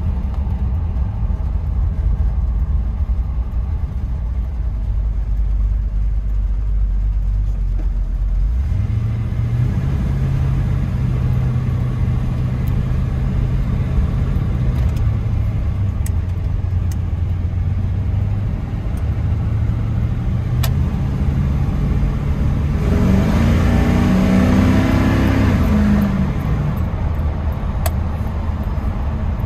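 A 1979 Chevy K10's Blueprint 400 small-block V8 through a Dynomax and Vibrant exhaust, driving at a steady drone. The engine note steps up about a third of the way in, and near the end it is floored briefly, the revs climbing for about three seconds before it eases off.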